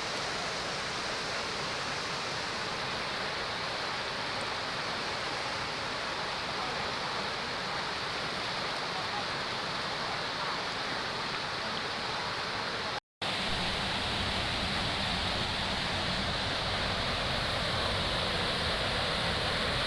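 Steady rush of a waterfall and its stream. About thirteen seconds in there is a hard cut to a louder, fuller rush with more low rumble.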